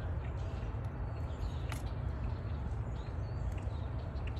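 A few faint clicks of multimeter probes and a plastic intake air temperature sensor being handled, over a steady low rumble.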